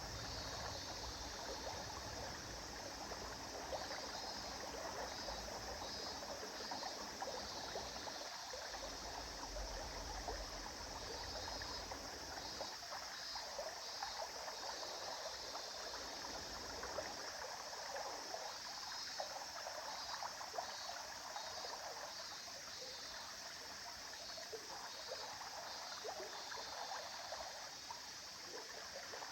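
River water flowing over stones, a steady rushing with fine splashing and trickling detail.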